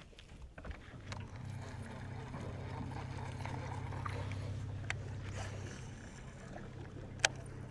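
Electric trolling motor running with a steady low hum that comes up about a second in and eases off near the end, with a single sharp click near the end.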